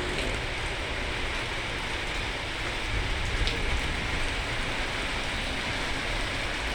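Heavy rain falling steadily on hard surfaces, a dense even hiss with a low rumble underneath.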